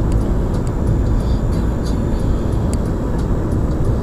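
Blizzard wind buffeting the microphone: a loud, steady low rumble with no letup.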